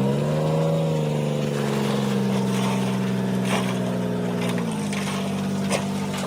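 Diesel engine of heavy earthmoving machinery running steadily, its pitch dropping about three-quarters of the way through as the throttle eases off. A couple of faint knocks come on top.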